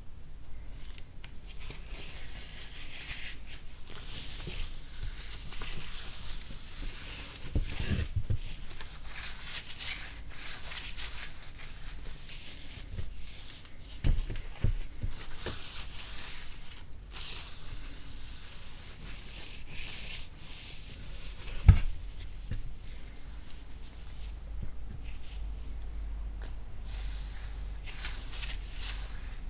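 Lumps of chalk being broken and crumbled, a dry scraping, crackling crumble with a few sharp knocks on the chalk, the loudest about two-thirds of the way through.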